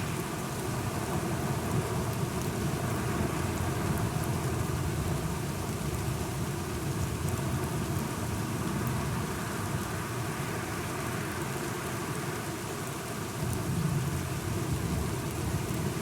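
Steady rain falling, with a low rumble of thunder under it that swells briefly near the end.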